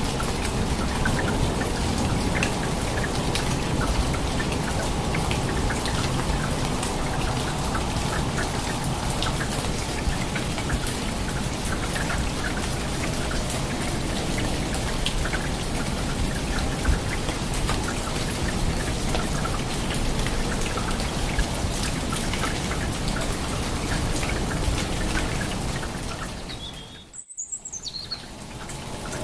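Steady rain, a dense patter of drops over a low rushing noise. It fades out about 26 seconds in, and a few short, high bird chirps follow near the end.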